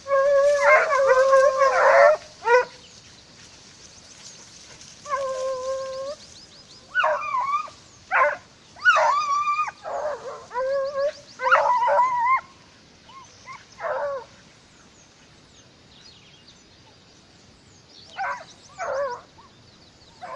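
Hunting dogs baying as they chase a rabbit: a long drawn-out howl at the start and another about five seconds in, then a run of short barks and yelps, a lull, and a few more barks near the end.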